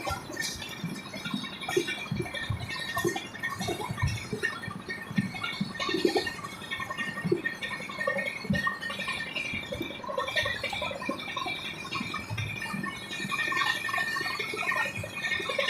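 Moving passenger train heard from inside the coach: irregular rattling and knocking, with a faint steady high squeal.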